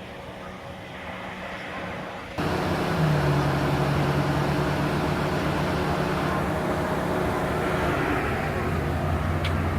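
Steady machine hum under a rushing noise, which jumps louder about two and a half seconds in and then holds steady.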